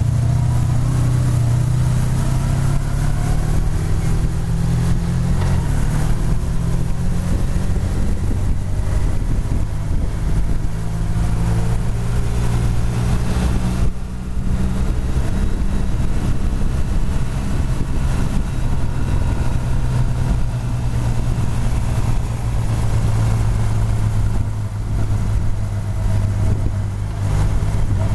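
Motorcycle engine running on the move, its pitch rising and falling with throttle and gear changes, with wind noise over the microphone. The engine note drops briefly about halfway through and again near the end.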